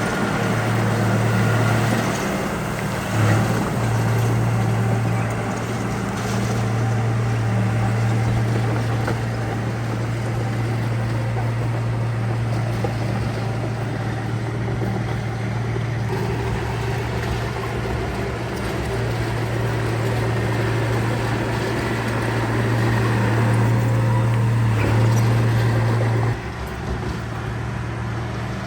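Diesel engine of heavy construction machinery running steadily under load, with a strong, even low hum. The engine sound drops off suddenly about two seconds before the end.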